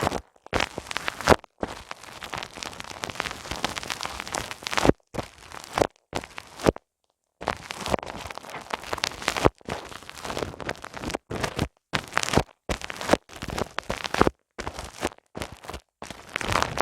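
Ear massage on a binaural microphone: hands rubbing and pressing over the mic's ears, giving a close, crackling friction noise. It comes in strokes a second or two long, broken by short silent pauses, the longest about seven seconds in.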